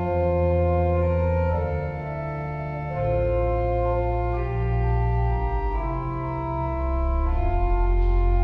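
Church organ playing slow sustained chords over deep bass pedal notes, the harmony changing every second or so.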